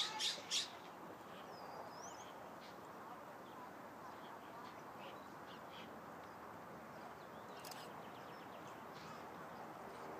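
A bird's harsh call repeated quickly, about four times a second, stopping within the first second. After it come faint scattered bird chirps over a steady outdoor background hiss.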